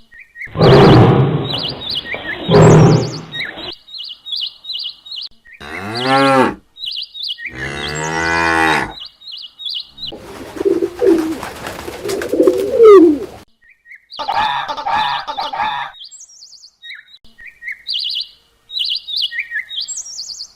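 Cattle mooing, several long calls one after another, with small birds chirping throughout.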